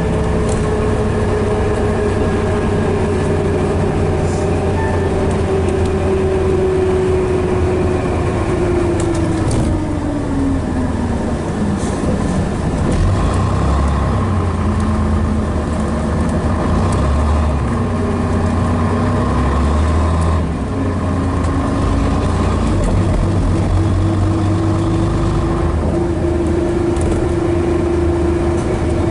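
Scania Metropolitan double-decker bus running, its engine rumbling with a drivetrain whine. The whine holds, drops away steeply about ten seconds in as the bus slows, then rises again later as it picks up speed.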